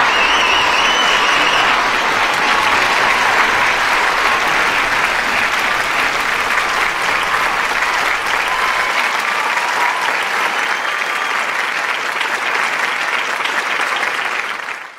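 Large audience applauding, with a few cheers in the first couple of seconds. The sound fades out sharply at the very end.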